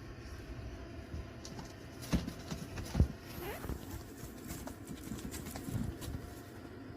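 Kittens playing, their paws pattering with scattered light taps and knocks, and two louder thumps a little after two and three seconds in.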